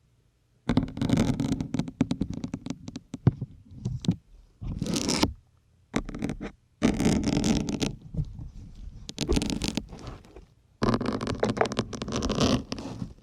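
Syringe needles being pushed into and drawn out of a foam sponge: squeaky, crunching scrapes in bursts of one to two seconds with short gaps, starting about a second in.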